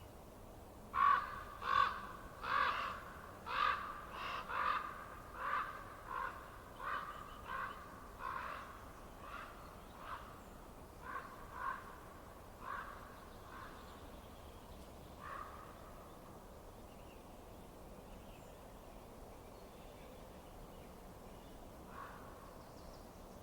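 A run of short, harsh animal calls, one or two a second, loudest at first and fading away over about twelve seconds, with two stray calls later, over a faint steady hiss.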